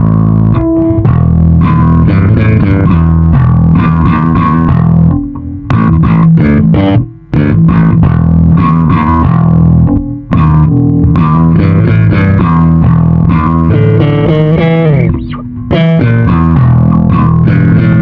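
YAMAHA SBV-550 electric bass played through a Line 6 Bass POD amp modeller, a busy rhythmic line with a few short breaks and a sliding note near the end.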